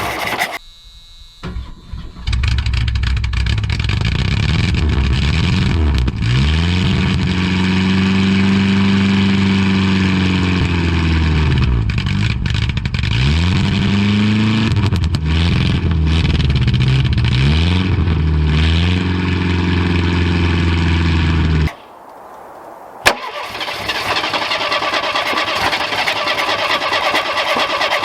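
Ford Pinto engine on a cold start, catching about two seconds in and running rough while the throttle revs it up and down several times. It stalls about 22 seconds in, because it will not idle with a sticky throttle linkage and a stuck accelerator pump. A click follows, then a thinner, steady mechanical noise.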